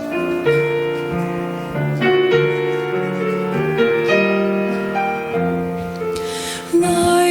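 Piano playing a gentle introduction of sustained, changing chords. A choir of women's voices comes in on a held note near the end.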